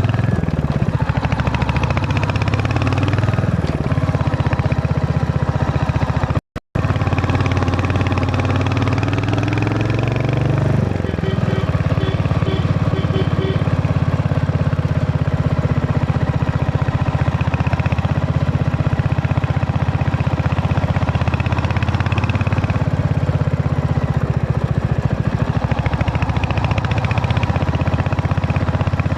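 Royal Enfield Hunter 350's single-cylinder engine running, its revs rising briefly a few times. The sound cuts out for a moment about six seconds in, and a short run of beeps comes through about twelve seconds in.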